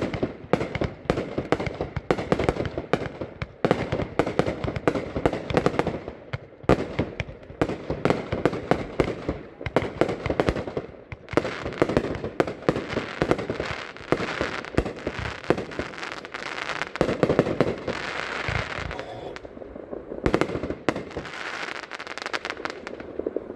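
Showtime's Wings of Valor consumer firework cake, a compound of two 24-shot cakes (48 shots), firing: launch thumps and aerial bursts follow in rapid succession, with stretches of hissing fizz in the second half.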